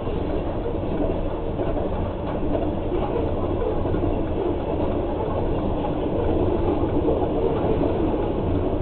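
Loaded coal hopper cars of a freight train rolling past, a steady rumble of steel wheels on the rails, muffled through the cab of a pickup truck.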